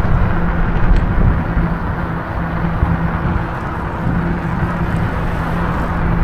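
Wind rushing over the microphone and tyre noise from an e-bike riding along a road at about 15 mph, with a steady low hum running under it.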